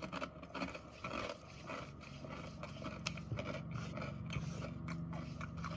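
A person chewing a mouthful of Popchips barbecue potato crisp with the mouth closed: faint, irregular crunches and wet mouth clicks.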